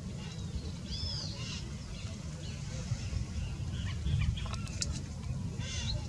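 Wild birds calling: short arched high chirps about a second in, scattered calls later and a harsher call near the end, over a low steady rumble.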